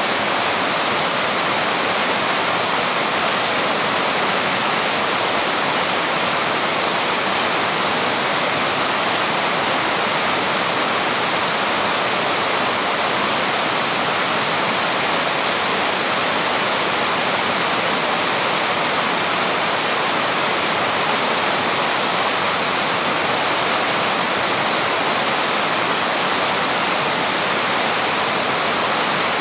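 Waterfall rushing, a steady, even roar of falling water that does not change.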